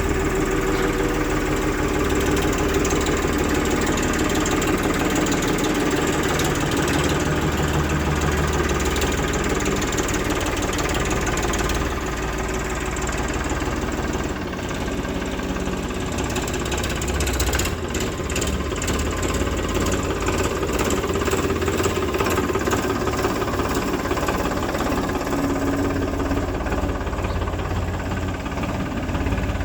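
Diesel engines of a backhoe loader and farm tractors running steadily, with a short run of knocks a little past halfway.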